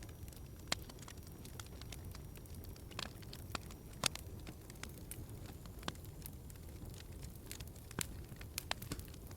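Wood fire crackling in a fireplace: a steady low rumble with irregular sharp pops, several coming close together near the end.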